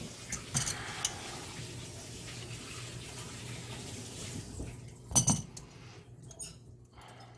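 Light clinks and a single loud metallic clank from handling the dishwasher's door-hinge parts, over a steady rushing hiss like a running tap that dies away just before the clank.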